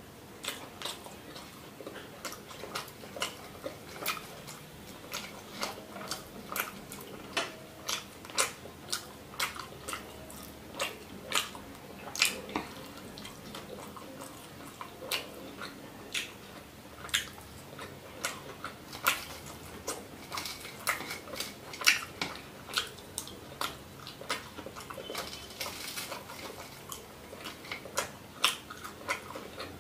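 Close-miked eating sounds of a person chewing fish and rice: wet mouth clicks and lip smacks, irregular, about one or two a second.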